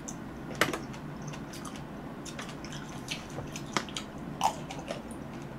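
Close-miked mouth sounds of eating fresh cherries: wet biting and chewing with scattered sharp clicks and smacks, loudest about half a second in and again around four and a half seconds.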